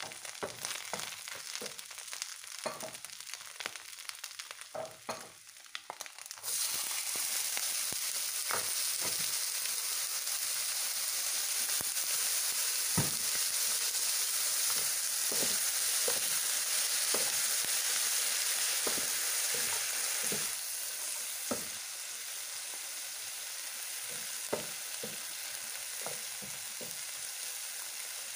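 Crispy fried mussels sizzling in oil in a nonstick frying pan while a wooden spatula scrapes and taps the pan. About six seconds in the sizzle jumps suddenly much louder, as when fresh bean sprouts go into the hot pan, and it eases off a little near the end.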